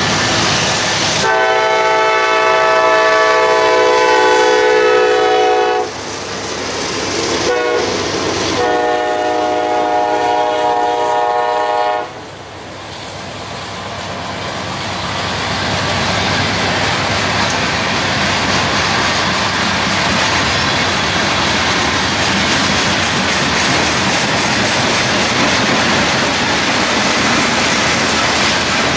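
A passing train's horn sounds a long blast, a brief one and another long blast. Then the train goes by with a steady rush of wheels on rail, which grows louder over a few seconds and then holds.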